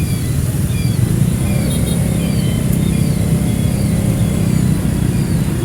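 Motorbike riding through city traffic: a steady low engine and road rumble, with a faint high chirp repeating about twice a second.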